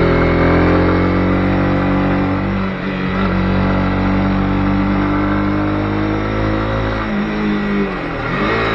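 Honda CB250R single-cylinder engine running under way, its revs falling and picking up again near the end, with rock guitar music in the background.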